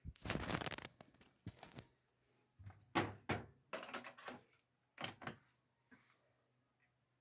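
Hands working a Grundig front-loading washing machine: a rattling clatter for about a second, then a series of separate knocks and thunks.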